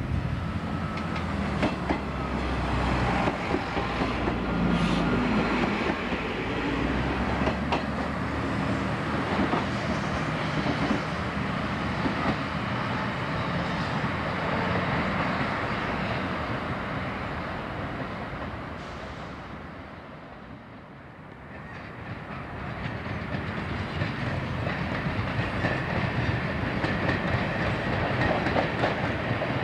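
Class 158 diesel multiple unit's underfloor diesel engines working as it pulls away, with wheels clicking over rail joints and points, fading as it recedes. After a brief lull, a slam-door electric multiple unit rolls in with rising wheel clatter.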